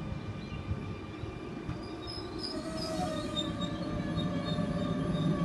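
Sydney Trains M-set (Millennium) electric train moving along the platform, with a steady rumble and several thin whining tones over it, growing slowly louder.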